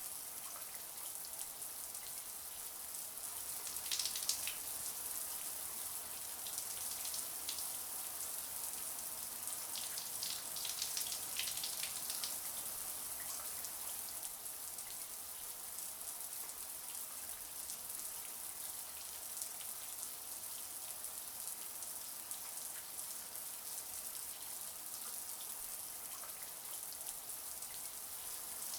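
Shower water running steadily, a high hiss of spray with bursts of spatter now and then as the stream hits a surface.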